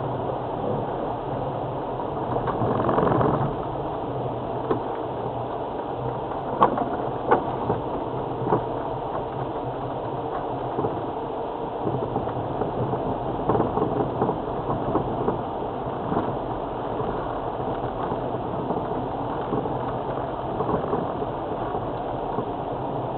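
Land Rover Freelander TD4 diesel engine running steadily while the vehicle drives a rough track, heard from inside the cab. Scattered knocks and rattles from the body and suspension come through the middle of the stretch.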